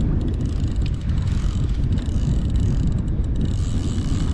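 Steady wind noise buffeting the microphone, a low, even rumble.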